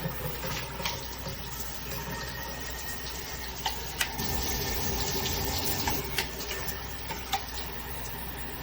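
Water spraying steadily from a shower head, a continuous hiss with a few short clicks scattered through it.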